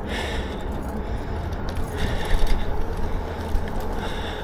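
Lectric XP4 e-bike riding over a bumpy path, with a steady low rumble of tyres and wind and a light jangling rattle from the battery loose in its mount.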